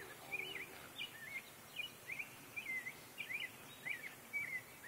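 A bird singing faintly: a continuous run of short, swooping whistled notes, several a second, over a light background hiss.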